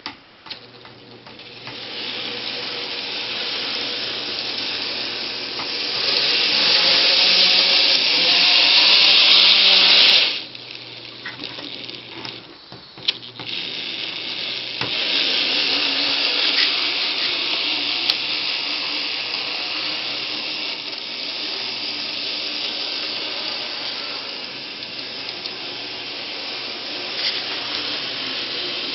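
N scale model train running on track laid loose on styrofoam, with a steady whir of the small motor and the wheels. It grows louder for a few seconds, then stops abruptly about ten seconds in. A few clicks follow, and it starts running again.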